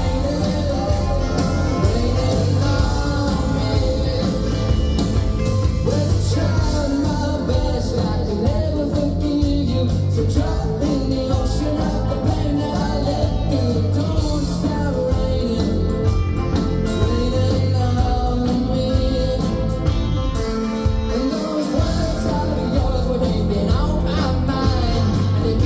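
Live rock band playing a song with a sung lead vocal over guitars, bass and drums.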